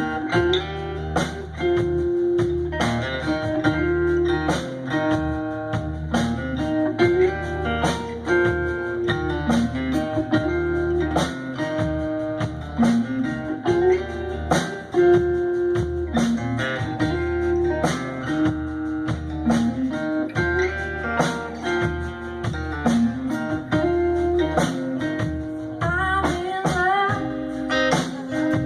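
Live blues band playing: a repeating guitar riff over a steady drum beat, with a run of bent guitar notes near the end.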